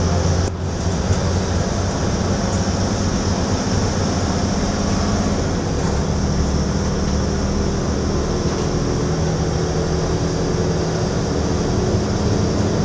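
Interior running noise of an Alstom Coradia LINT regional railcar under way: a steady low drone and rumble, with a faint high whine that drops slightly in pitch about halfway through.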